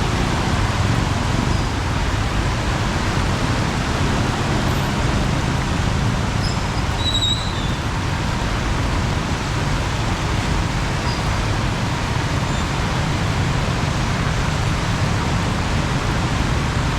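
Heavy rain falling steadily, mixed with the rumble of traffic on a wet, flooded road. A brief high chirp sounds about halfway through.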